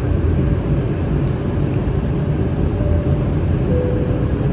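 Steady low rumble inside the cabin of an Airbus A319 in flight: the CFM56 engines and the airflow over the fuselage, even and unbroken.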